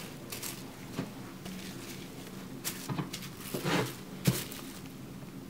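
Scattered handling noises: a few light knocks and short rustles, a longer rustle just before the fourth second and a sharp knock soon after, over a faint steady room hum.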